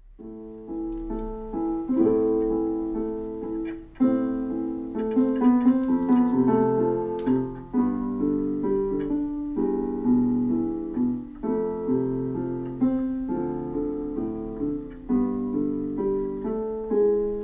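Piano playing the instrumental introduction of a slow song: sustained chords struck afresh and changing about every two seconds, with no voice yet.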